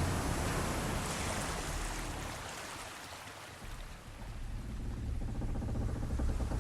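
Sea waves washing with a low rumble; the wash ebbs to its quietest midway, then swells up again.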